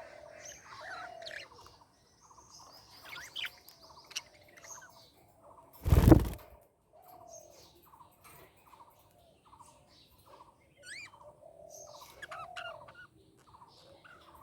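Budgerigars chirping and warbling, with a short chirp repeated two or three times a second underneath. About six seconds in there is a brief, loud rush of noise.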